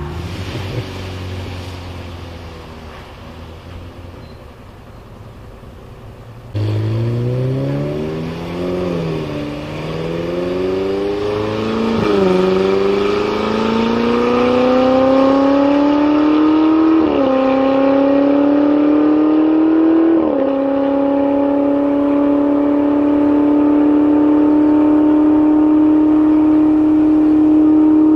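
Ferrari 488 GTB twin-turbo V8 with a custom exhaust accelerating hard through the gears. It comes in loud about six seconds in, and the note climbs and drops sharply at four quick upshifts. It then holds a steady high note at speed.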